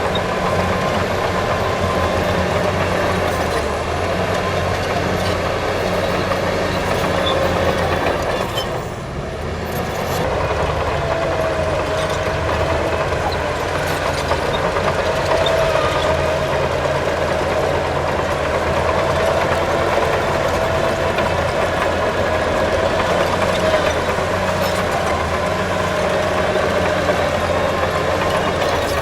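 Heavy diesel earthmoving machinery running steadily, an engine hum with a faint whine over it. The sound dips briefly about nine seconds in.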